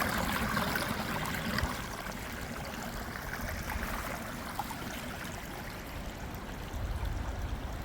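Spring water running out of the ground in a small steady trickling flow.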